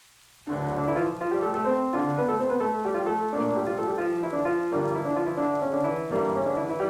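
Faint rain, then classical piano music begins abruptly about half a second in, a busy run of notes across the keyboard.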